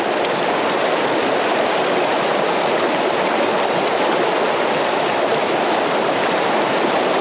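Creek water rushing steadily over rocks, a close, even wash of noise.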